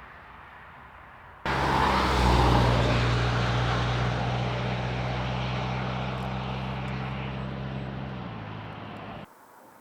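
Motor vehicle engine running with a steady low hum over road noise. It cuts in suddenly about a second and a half in, slowly fades, and cuts off suddenly near the end.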